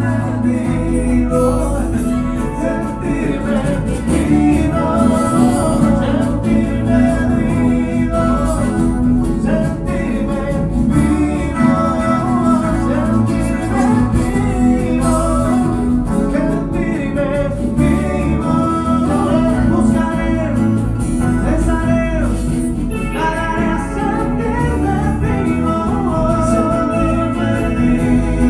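A band playing a Latin romantic song on guitar, bass and other instruments, with a melodic lead line that bends in pitch above a steady low accompaniment.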